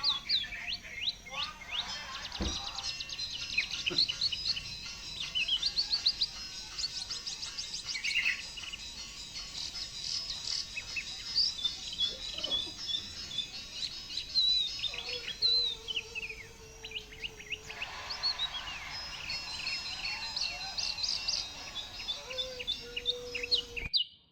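Several caged songbirds chirping and singing together: overlapping quick chirps, trills and short falling whistles.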